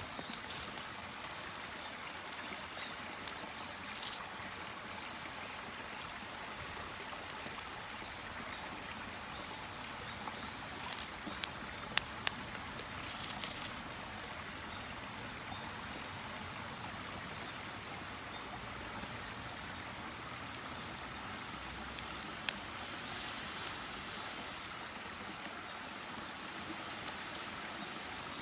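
Wood campfire burning: a steady rushing hiss with a few sharp crackling pops, the loudest two close together about twelve seconds in and another about twenty-two seconds in.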